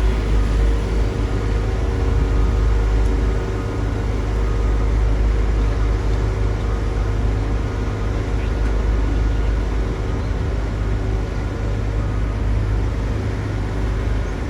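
Heavy diesel construction machinery running steadily: a deep, continuous engine rumble with a faint steady whine above it.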